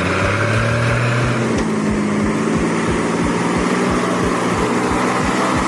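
Heavy truck's diesel engine running hard at steady revs, with a low pulsing beat about five times a second; its note shifts slightly about one and a half seconds in.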